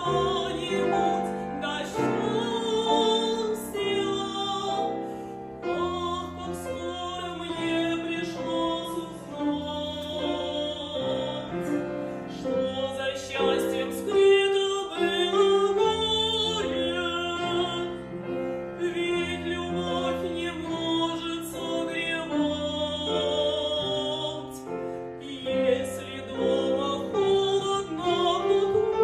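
A woman singing an operetta number in operatic style, with a wide vibrato on long held notes, accompanied by piano.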